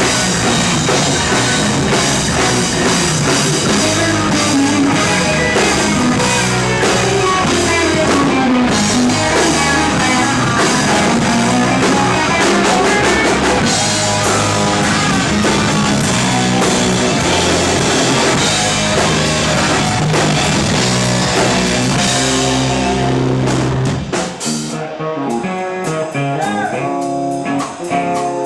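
Live rock band playing: electric guitar over drum kit. About 24 seconds in, the drums and low end drop out and the music thins to guitar notes.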